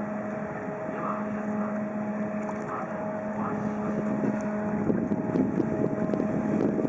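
Paddle-wheel cruise ship Michigan running as it comes into port, a steady low engine hum over a wash of noise. A rougher noise grows louder about five seconds in.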